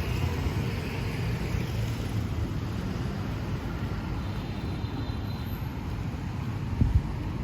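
Steady low rumble of street traffic passing, with a brief thump near the end.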